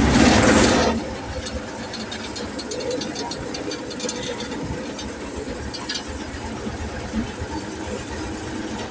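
Fahr M66 combine's engine just after starting, loud for the first second, then settling into steady running.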